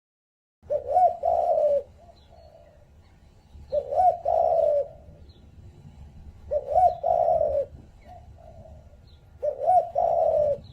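Pigeon cooing: four low phrases, each about a second long and about three seconds apart, starting just under a second in. Faint higher chirps come between the phrases.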